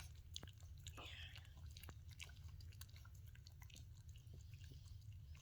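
Faint, irregular clicking mouth sounds of a dog chewing, over a low steady hum.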